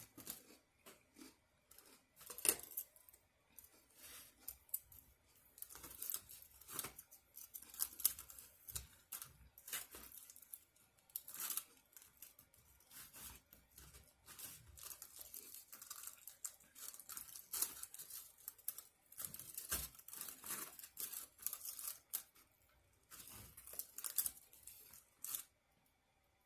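Close-up tearing and crinkling from a takeout meal being handled, a quick irregular run of short rips and rustles with brief pauses.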